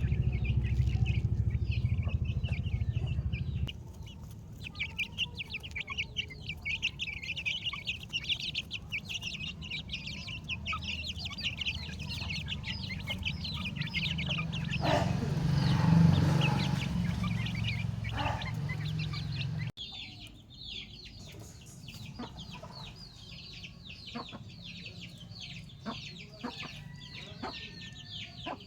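A flock of chickens clucking and calling, with many short, high calls overlapping. A low rumble sits under them for the first two-thirds and stops abruptly about two-thirds of the way through.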